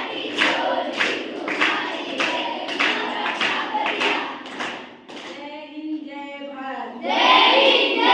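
A group of children singing a chanted song over sharp, even beats about twice a second. The beats stop about five seconds in, a single drawn-out voice line follows, and many voices shout out together near the end.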